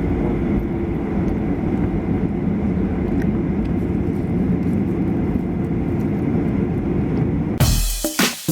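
Steady cabin rumble inside a Boeing 737-800 on the ground before takeoff, its CFM56 engines running with the cabin air hum. About seven and a half seconds in it cuts off suddenly and music with a beat comes in.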